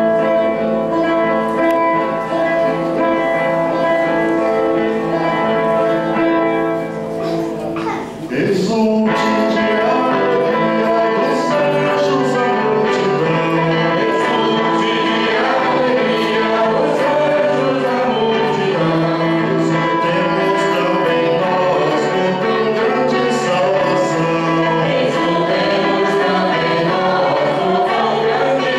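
A church hymn sung by a choir over steady held instrumental chords. The singing voices come in strongly about a third of the way through.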